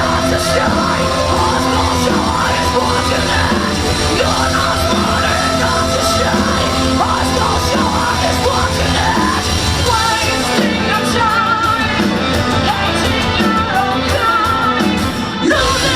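Heavy metal music with yelled, screamed vocals, loud and continuous; about ten seconds in a higher wavering melody line comes in.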